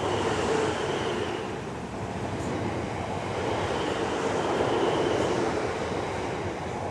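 Electric multiple-unit train running on the line: a steady rail rumble with a faint, even whine through it.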